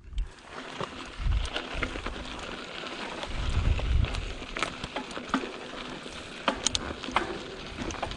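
Mountain bike tyres crunching over a dry, loose dirt trail, with many sharp clicks of gravel and two low rumbles of wind on the microphone.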